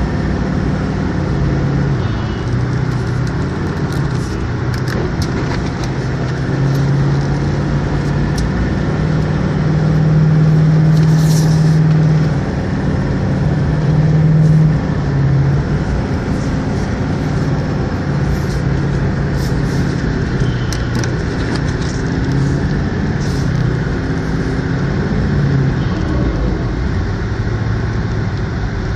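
Vehicle engine and road noise while driving through deep snow, the engine note rising and falling in steps, loudest about a third of the way through.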